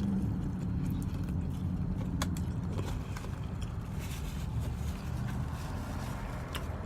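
Steady low rumble of an idling vehicle engine, heard from inside the cab, with a few faint sharp clicks over it.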